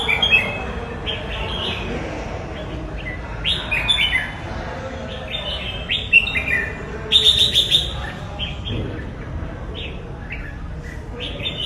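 Red-whiskered bulbul singing: short phrases of quick whistled notes repeated every second or two, over a steady low background hum.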